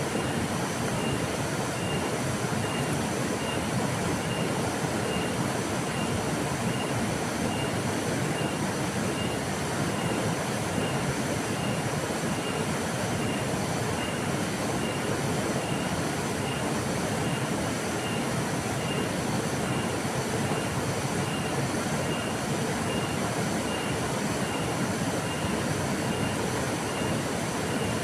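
Flowing river: a steady, even rush of water. A faint, high chirp repeats about twice a second through it.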